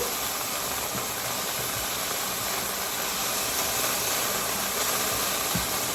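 Steady sizzling hiss of chicken strips frying in a pan on the stove.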